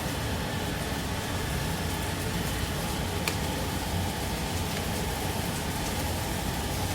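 Steady restaurant-kitchen noise: a constant roar with a rain-like sizzle, typical of wok cooking over a gas burner, with a single clink about three seconds in.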